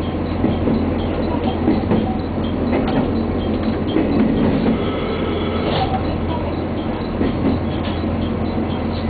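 Super Soya limited express, a KiHa 261 series diesel railcar, running at speed, heard from inside the passenger cabin: a steady low hum with wheels clicking over rail joints. A brief high ringing about halfway through.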